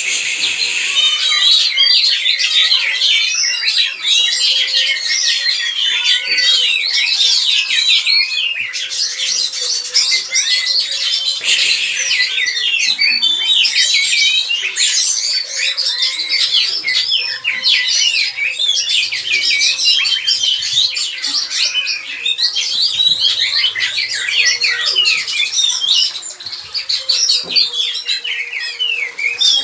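Oriental magpie-robins (kacer) chirping and calling continuously, a dense run of short, quick high chirps and whistles from several birds at once.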